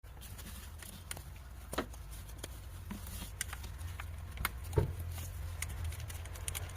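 Car engine running with a steady low hum, with irregular light clicks and taps over it.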